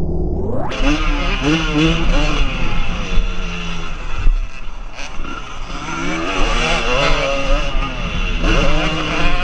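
Motocross bike engine revving hard, its pitch climbing and dropping again and again with throttle and gear changes; the sound cuts in abruptly about half a second in.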